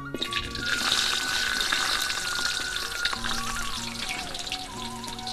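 Sliced jengkol frying in hot oil in a wok: a loud sizzle starts suddenly as the slices go in and eases slightly after about three seconds.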